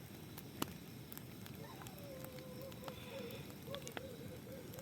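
Faint crackling with scattered small clicks, typical of seafood cooking. From about two seconds in, a faint wavering tone comes in and holds.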